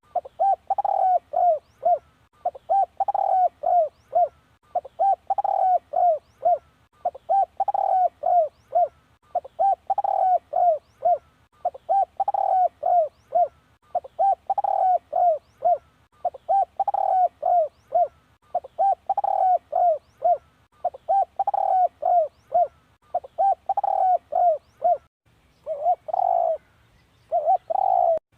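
Spotted dove cooing: a phrase of several quick coo notes, repeated about every two seconds. Near the end the phrases come shorter and less regular.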